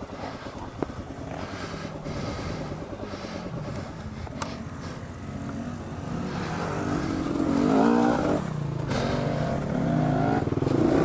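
Dual-sport motorcycle engine running at low revs with uneven throttle, then revved harder and louder in the second half, typical of working a bike through deep mud. A single sharp click about four seconds in.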